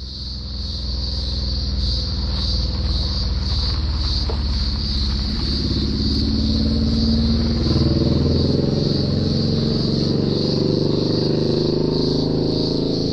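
Cicadas in summer chorus: a loud, steady high-pitched buzz that pulses evenly. A low rumble runs underneath and rises in pitch about halfway through.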